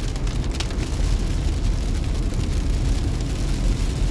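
Car driving on a wet road, heard from inside the cabin: a steady low rumble of road and engine noise with an even hiss over it.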